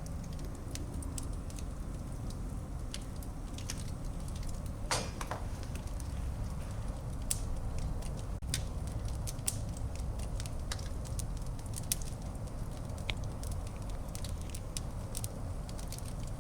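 Wood fire burning in a fireplace: a steady low rumble with irregular sharp crackles and pops, a louder crackle about five seconds in.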